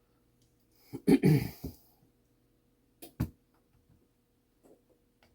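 A person coughs briefly, loud and short. About two seconds later come two sharp clicks, a fraction of a second apart, then a few faint ticks.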